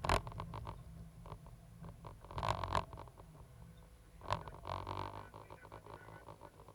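Diesel engine of a Cat 320GC excavator running with a low, steady hum, with sharp knocks and rattles on top. The loudest are near the start and about two and a half seconds in.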